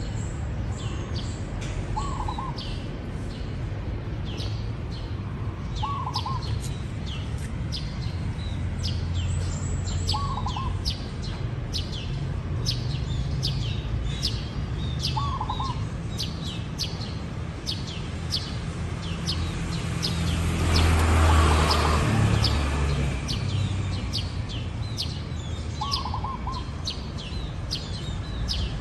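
Zebra dove cooing: a short rolling call repeated about every four seconds, over steady quick chirping of other small birds. About two-thirds of the way through a broad rush of noise swells up and fades away.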